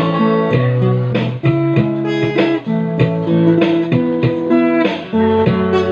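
Guitar playing an instrumental passage between sung lines: plucked notes over sustained low bass notes, with no voice.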